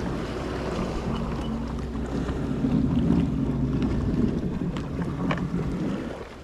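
Jet ski engine running steadily at low speed, dying away near the end.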